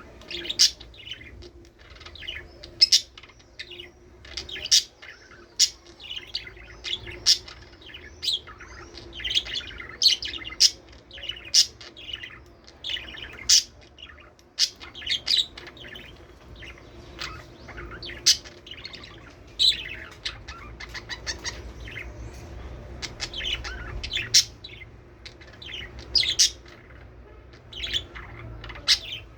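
Budgerigars chirping and chattering, with many short, sharp calls overlapping at an irregular rate over a faint steady hum.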